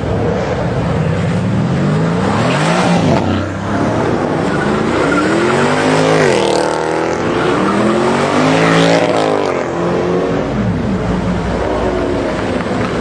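Mercedes-AMG car engine revving hard and loud, its pitch climbing and falling back about three times as it accelerates.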